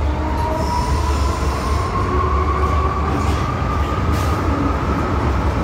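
Hong Kong MTR Island Line M-Train metro train running: a steady low rumble with a whine that climbs slowly in pitch.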